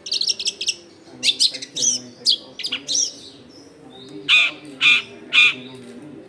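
Long-tailed shrike (cendet) singing: a quick run of varied, high chattering notes for about three seconds, then from about four seconds in a string of harsh calls about twice a second.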